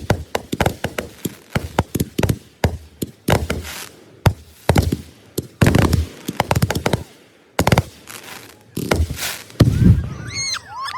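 Consumer fireworks going off: a rapid, irregular string of sharp bangs and crackling pops, with wavering whistles near the end.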